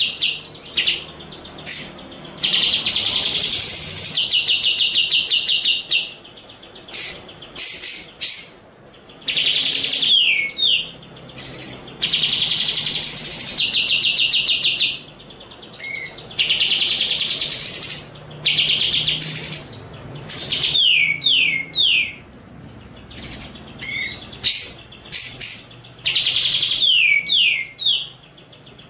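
Songbird song from a bird-training recording: long, rapid, even trills, several rising at the end, broken by short pauses, with quick falling whistled notes in between.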